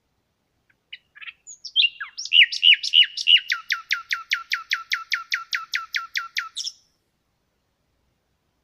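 A songbird sings one phrase: a few scattered chirps, then a long run of rapid, evenly repeated down-slurred notes, about five a second, that stops abruptly about seven seconds in.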